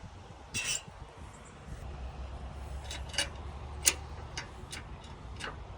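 Scattered clicks and knocks, the sharpest about four seconds in, from someone handling a stiff, rusty old rototiller-like farm implement that hasn't been moved in years, over a low rumble.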